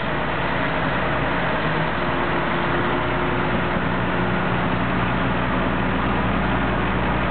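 Heavy engine idling steadily, with a low hum under a constant mechanical noise.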